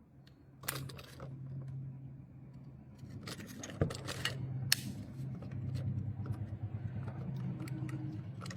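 Small clicks and scrapes of a tool and metal parts being handled as a wall light switch is opened, over a steady low electrical hum.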